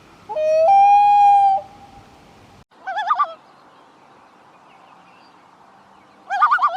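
Common loon calling: one long wail that steps up in pitch and holds for about a second, then two short quavering tremolo calls, one about three seconds in and one at the end.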